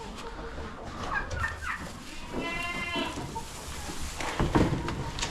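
A goat bleats once, a call of about a second with a clear pitch, about two seconds in, among short clucks from chickens. A louder burst of noise follows near the end.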